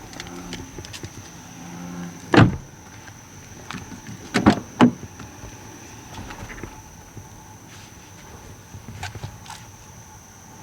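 American bullfrog giving a low, throbbing croak for the first two seconds. Then come a few loud thumps: one about two and a half seconds in and a quick pair a couple of seconds later.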